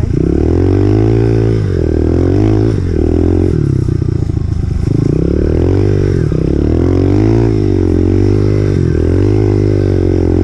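2018 Honda CRF125F's single-cylinder four-stroke engine running as the bike is ridden, its pitch rising and falling over and over as the throttle is opened and closed.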